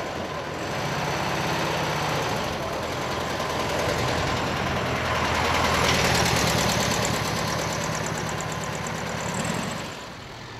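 Porsche 356 Speedster's air-cooled flat-four engine running at low revs as the car moves off slowly past close by, loudest about six seconds in, then fading.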